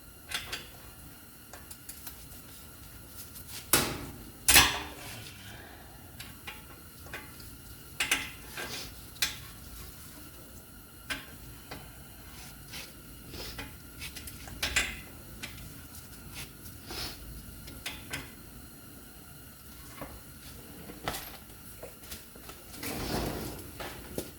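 Metal hand tools and parts clinking and clanking during brake work, in scattered knocks, with two loud clanks about four seconds in and a longer rattle near the end.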